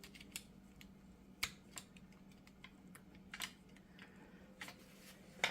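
Scattered light metallic clicks and taps, about six spread over a few seconds, from tools and the retaining clip being worked at a universal joint's bearing cap.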